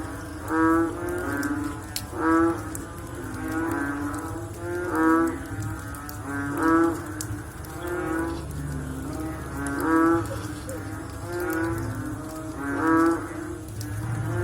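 A chorus of frogs calling after rain: many overlapping deep, pitched calls repeating every second or so, some louder and nearer than others, over a steady low background hum.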